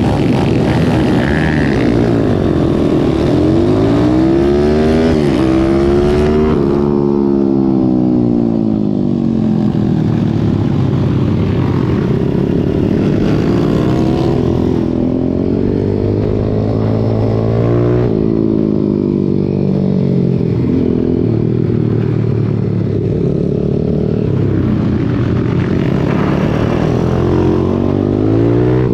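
Racing pit bike engine, heard onboard, revving up and dropping back over and over as the rider accelerates, shifts and brakes for corners, with steady wind and road noise underneath.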